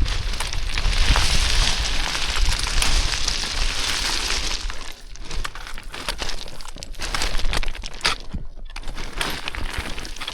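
Boots sliding down loose scree, the stones crunching and clattering in quick irregular steps. Wind rumbles on the microphone for the first half, then drops away about five seconds in, leaving the crunching clearer.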